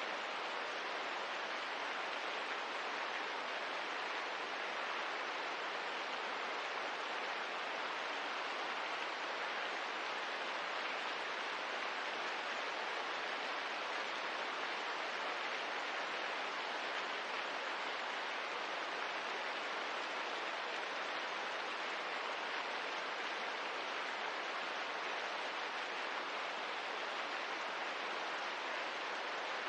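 Steady rain ambience: an even, unbroken hiss of rainfall with no separate drops or fire crackles standing out.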